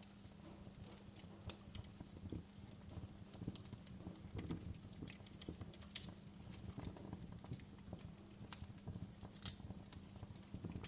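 Wood fire crackling in a fireplace: irregular sharp pops and snaps, a few louder ones, over a low steady rumble of burning.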